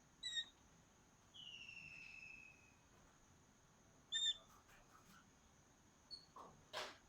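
Faint birdsong: a few short chirps and one longer whistled note that falls in pitch, over a steady high-pitched insect-like tone. A few soft clicks come a little past halfway, and a brief rustle comes near the end.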